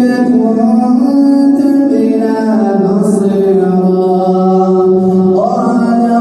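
A man's voice reciting the Quran in a slow, melodic chant, holding long drawn-out notes that step down in pitch and then climb again near the end.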